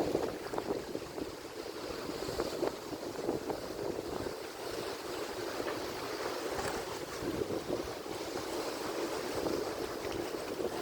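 Atlantic Ocean surf: a steady wash of waves breaking and rolling, with many small crackles of water throughout.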